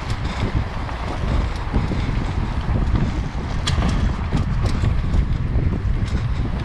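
Wind buffeting the action-camera microphone while a mountain bike rolls fast over a dirt trail: a steady rumble of tyres on the ground, with scattered clicks and rattles from the bike over bumps.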